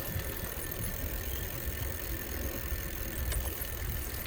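Wind buffeting the microphone during a bicycle ride: an uneven low rumble with a steady hiss above it and a few faint clicks.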